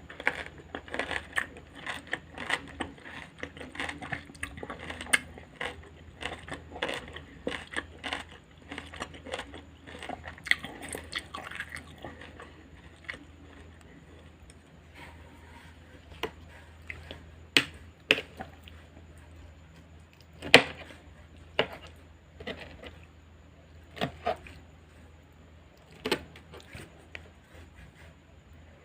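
Close-miked crunchy chewing of raw salad vegetables: a dense run of crackling crunches for about the first twelve seconds, then slower, sparser crunches and a few sharp louder clicks.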